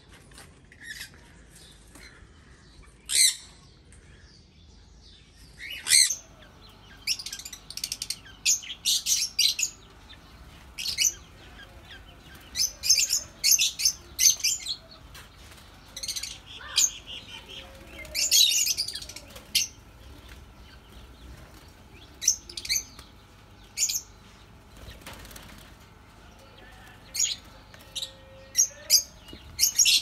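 Birds chirping: many short, high chirps, some singly and some in quick clusters, with quieter gaps between.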